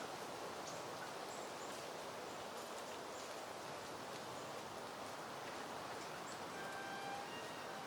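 Soft wind rustling steadily through peony leaves and blooms, with a few faint high chirps scattered through it.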